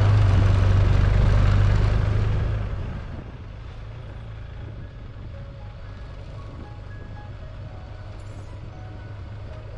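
Motorcycle riding noise, a loud steady low drone of engine and wind, fading out about two and a half seconds in, leaving a quiet hum with a few faint musical notes.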